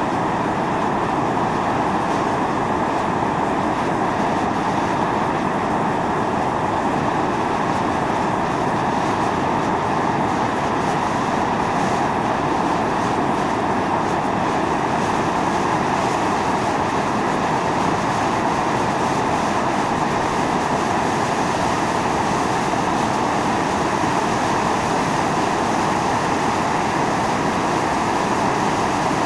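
Steam venting continuously from a volcanic fumarole: a steady, unbroken rushing hiss with no change in strength.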